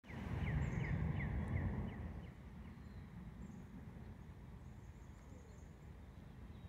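A bird calling a quick series of short, falling chirps, about three a second, fading out after about three seconds. Under it is a low rumble that is loudest in the first two seconds and then settles to a steady low background noise.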